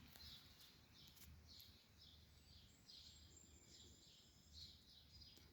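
Near silence: faint high chirps repeat irregularly throughout over a faint low hum, with a thin high whistle for about a second in the middle.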